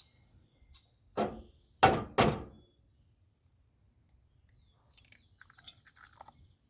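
A fresh egg knocked against a hard edge to crack it: three sharp knocks in the first half, the last two close together, then faint small clicks of shell near the end.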